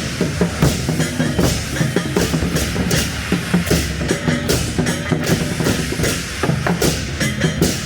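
Loud drum-led procession music with a thick layer of sustained low tones, broken by many quick, irregular sharp hits.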